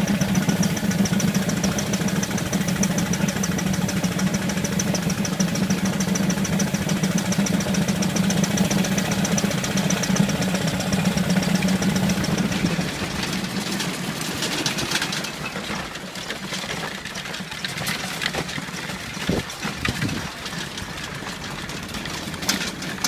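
Miniature Ruston Proctor steam traction engine running along, a steady drone with a fast, even ticking from the motion. About halfway through it drops quieter, leaving scattered clicks and knocks.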